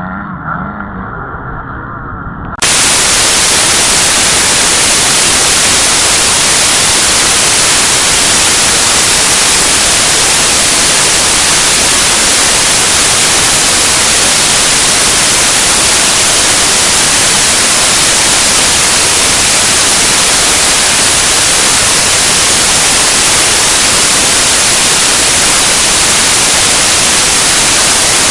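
Loud, even static hiss that cuts in abruptly about two and a half seconds in, drowns out the quieter sound before it, and then stays unchanged: white noise in the audio track rather than any sound at the track.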